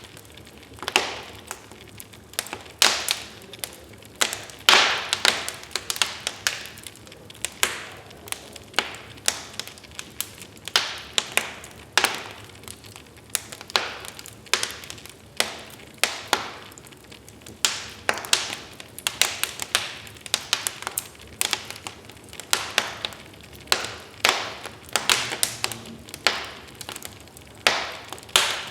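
Wood fire crackling in a fireplace: irregular sharp pops and snaps, a few each second, some louder than others, over a soft hiss.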